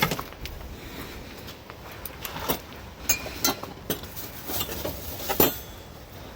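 Handling noises from serving food off a campfire: irregular clicks, taps and scrapes, with a sharper knock about five seconds in.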